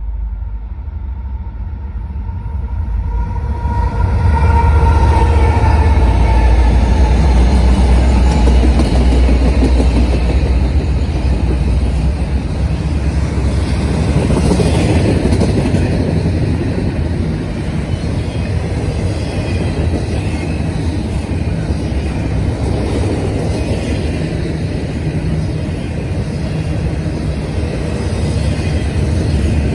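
Norfolk Southern diesel locomotives running past close by, the low rumble swelling loud about four seconds in, then a long train of double-stack intermodal container well cars rolling steadily by on the rails.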